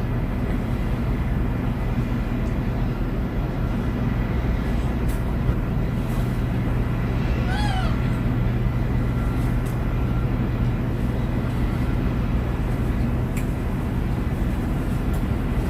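A gull calls once, a short cry rising and falling in pitch, about halfway through. A steady low drone runs underneath.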